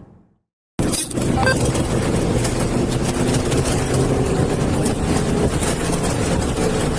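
A car's engine running with road and wind noise, loud and steady, with frequent crackles. It starts abruptly after a moment of silence.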